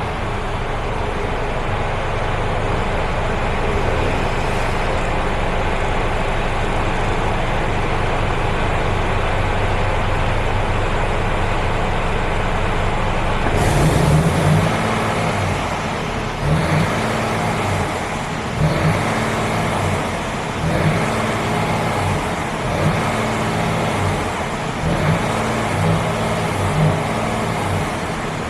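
Mercedes-Benz Actros 1840 tractor unit's straight-six diesel engine idling steadily. About halfway through the sound gets louder, then the engine is revved repeatedly, rising and falling about every two seconds.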